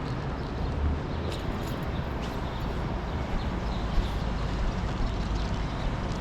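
Outdoor city ambience: a steady low traffic rumble with wind noise on the microphone, and a few faint short high sounds in the first half.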